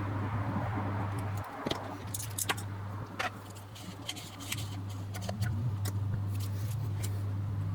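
Small sharp metallic clicks and clinks, scattered and irregular, from parts and tools handled while a vintage zoom lens is taken apart, over a steady low hum.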